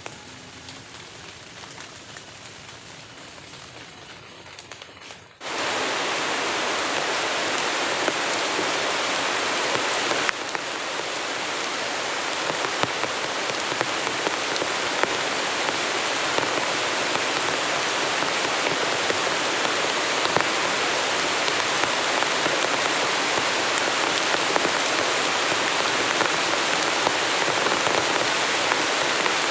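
Heavy rain falling, a steady dense hiss of drops. It is softer for the first five seconds or so, then abruptly much louder.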